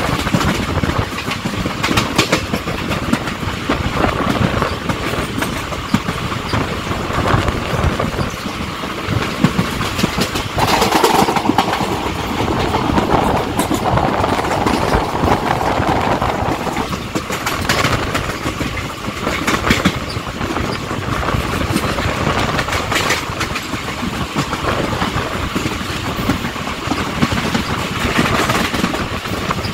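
Moving train rolling along the track, a steady rumble with the wheels clacking over rail joints at irregular intervals.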